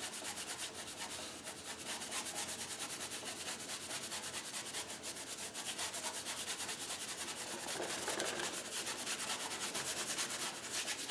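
A paintbrush scrubbing acrylic paint onto the painting surface in quick, repeated short strokes, giving a steady dry scratching and rubbing.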